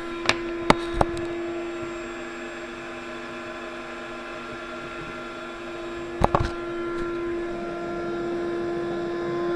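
Electric air-mattress pump running with a steady hum as the bed inflates. A few sharp clicks about a second in and a pair of knocks about six seconds in.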